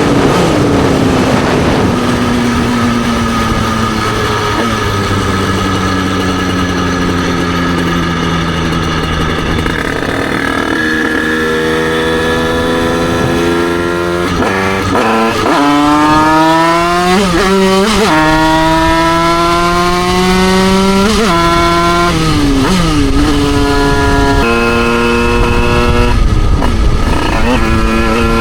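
Derbi Senda's 88cc two-stroke single-cylinder engine heard from onboard while riding. The revs fall away slowly at first as it coasts. From about halfway through it pulls up repeatedly with rising pitch and sharp drops, as it would when shifting up through the gears, and it runs steadier near the end.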